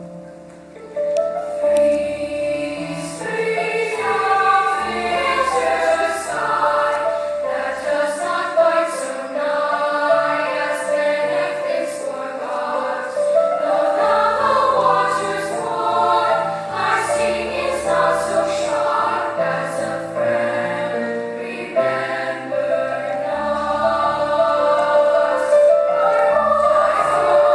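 School symphonic choir singing in several parts with piano accompaniment; the voices come in about a second in over the piano and hold full, sustained chords.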